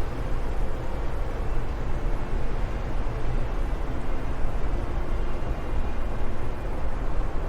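Steady wind blowing, a continuous rushing noise heavy in the low rumble, swelling and easing a little.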